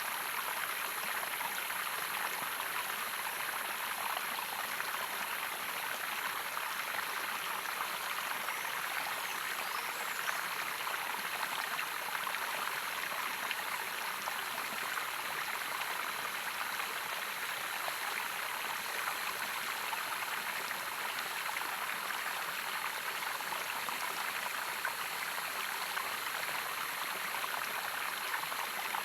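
Running water, a steady even rush of flowing water with no pauses or changes.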